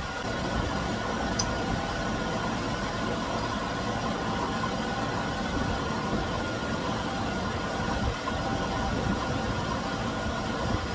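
Chevy Venture minivan's 3.4-litre V6 idling steadily, with its coolant reservoir open, while the cooling system is bled after a thermostat replacement.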